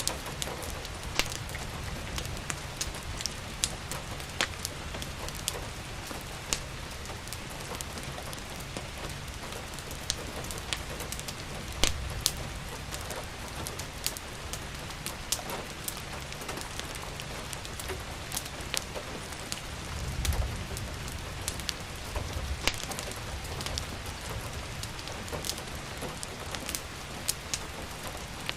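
Steady rain with a crackling wood fire: an even hiss of rain, broken by irregular sharp pops and snaps. A brief low rumble comes about twenty seconds in.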